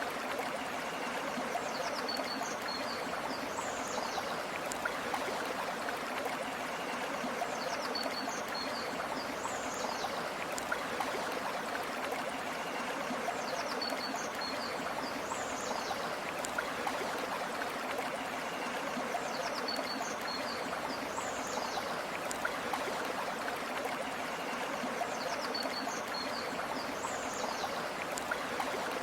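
River water flowing steadily. A short, high bird call repeats about every six seconds over the water.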